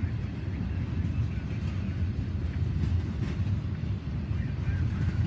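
Double-stack intermodal container cars rolling past, a steady low rumble of wheels on rail with faint high squeaks now and then.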